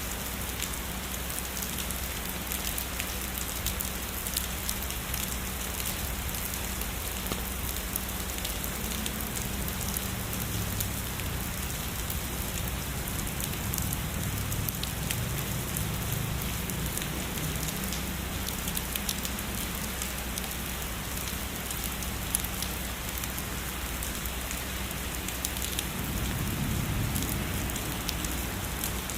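Heavy rain falling steadily, a dense patter of drops. Soft low rumbles of distant thunder swell in the middle and again near the end.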